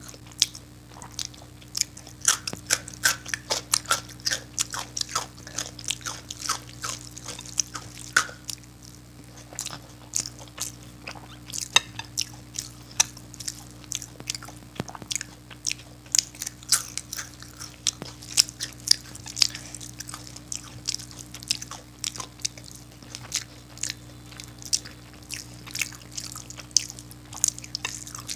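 Close-miked chewing of khichdi eaten by hand: wet mouth smacks and sharp clicks, several a second, with some crunchier bites.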